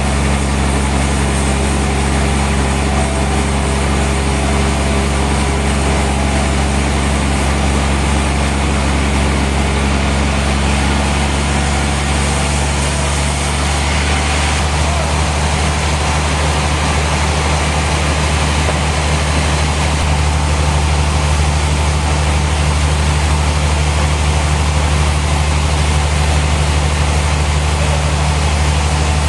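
Heavy sawmill machinery running steadily, a deep engine hum with a slight change in its tone about halfway through.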